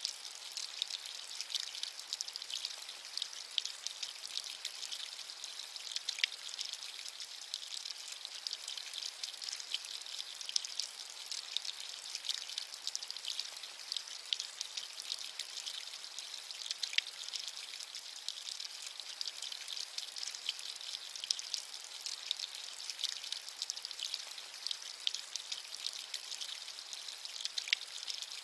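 Steady rain: a dense, even patter of small raindrops, high and hissy with no low rumble, with a few louder single drops standing out now and then.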